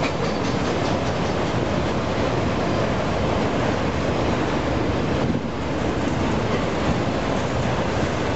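Freight train of enclosed autorack cars rolling past close by: steel wheels on the rails making a steady rumbling noise, dipping briefly about five seconds in.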